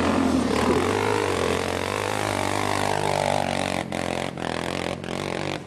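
Motocross bike engine running under varying throttle, its pitch rising and falling, with a few brief sudden dropouts in the last couple of seconds.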